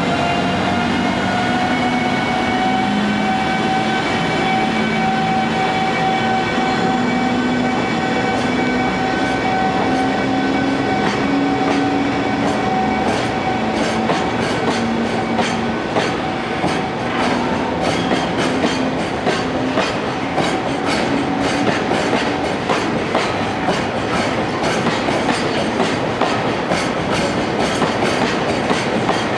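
JR Freight EF210 electric locomotive pulling a freight train away: the traction inverter's whine rises a little and then holds, fading about halfway through. The clatter of wagon wheels over rail joints takes over, the clicks coming faster as the train gathers speed.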